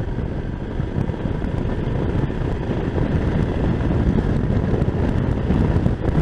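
Wind buffeting a fur-covered (deadcat) microphone on a moving motorcycle, mixed with engine and road noise: a dense, low, gusty rumble.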